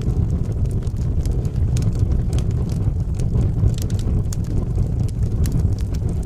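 Wood fire burning in a fireplace: a steady low roar of flames with frequent sharp crackles and pops of burning wood scattered throughout.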